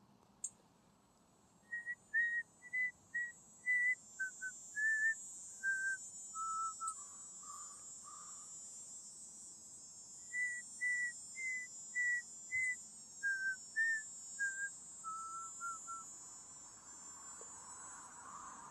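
A person whistling a short tune of clear notes stepping downward in pitch, played twice with a pause between, over a steady high-pitched hiss.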